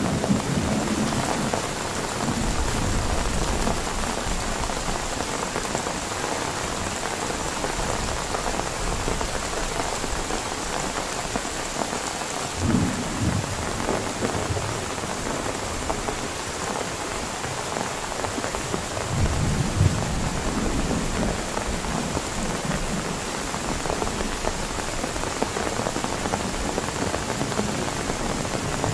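Heavy rain falling steadily, with a low thunder rumble at the start and two shorter low rumbles later on.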